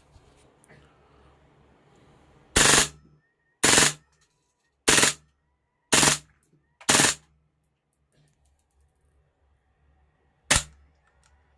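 Raptor SR-2M Veresk gas-blowback airsoft SMG firing: five loud, short bursts about a second apart, then a single one near the end, each with the crack of the blowback bolt cycling.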